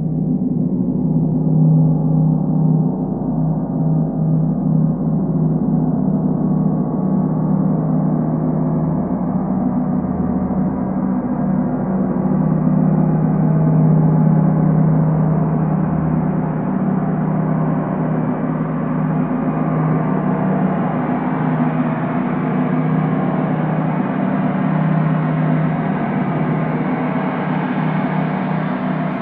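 Gong sounding continuously for a sound bath: a dense, sustained wash of many overlapping tones over a deep hum, growing slowly brighter as it goes.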